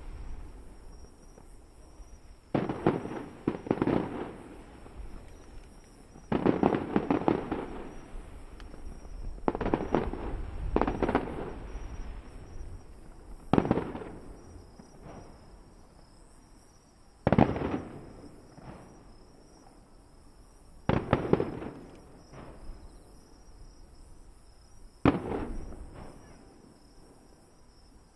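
Aerial fireworks shells bursting, a bang every few seconds, about nine in all. Each bang trails off in a rumbling echo over a second or two.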